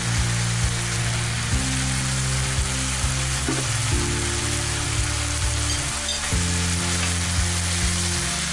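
Minced beef, onion and tomato sizzling as they fry in a frying pan, with a wooden spoon stirring and scraping through the mince. Background music of held low notes changes every two seconds or so underneath.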